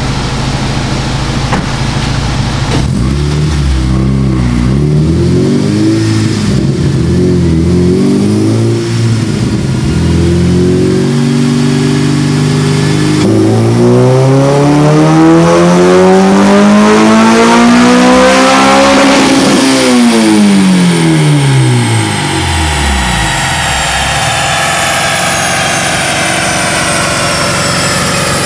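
Acura RSX Type-S's K20 2.0-litre four-cylinder, with a cold air intake and full exhaust, on a chassis dyno: several short throttle blips at idle, then a wide-open-throttle pull with the revs climbing steadily for about six seconds to the top. It then drops back to idle, while a high whine falls slowly as the dyno rollers coast down.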